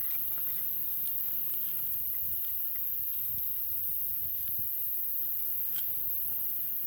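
Wood campfire crackling, with a few sharp pops, the clearest about a second in and near the end, over a steady high-pitched hiss and a low rumble.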